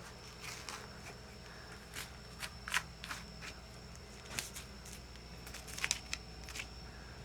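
Skinning work on a cold, cooler-stiffened deer carcass: scattered soft scrapes and clicks of knife and hands on the hide, a few a little louder, over a faint low hum and a faint steady high tone.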